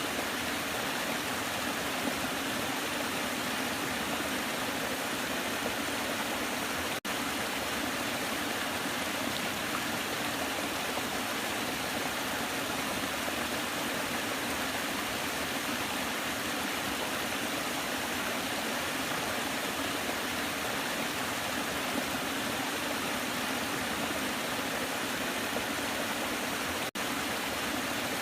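Waterfall: steady, even rushing of falling water. It cuts out for a split second twice.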